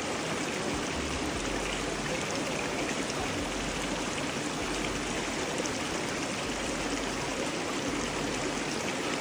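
Running water of a canyon stream, a steady, even rush with no change throughout.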